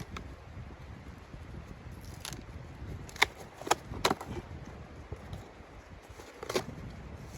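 A handful of sharp snaps or knocks, irregularly spaced through the middle of the stretch, over a steady low rumble of wind.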